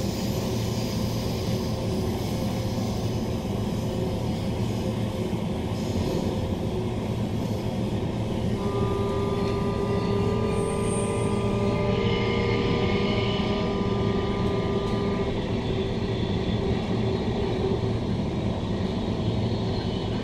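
Inside a Bombardier-built Queensland Rail NGR electric multiple unit running at speed: steady rumble of wheels on the track, with a whine of several steady tones from the electric traction equipment for about six seconds in the middle.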